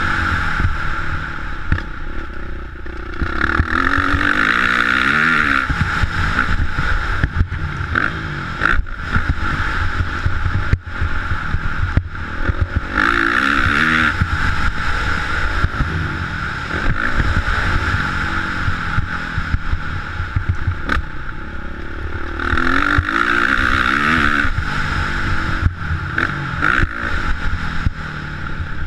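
Motocross bike engine being ridden hard, its pitch climbing and dropping again and again as the throttle is opened and shut, with scattered knocks.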